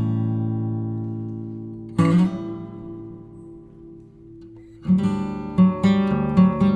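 Background music on acoustic guitar: chords ring and die away, a fresh chord sounds about two seconds in, and a run of picked notes starts about five seconds in.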